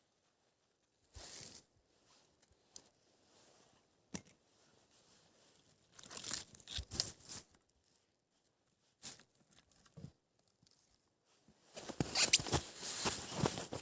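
Irregular crunching, tearing and crumpling noises in short bursts, growing denser and loudest near the end.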